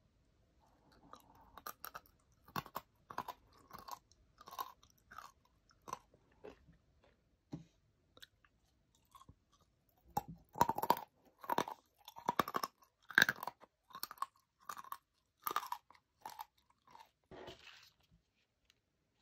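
A person chewing crunchy corn-flavoured coated almonds close to the microphone: irregular crisp crunches, louder and closer together in the second half.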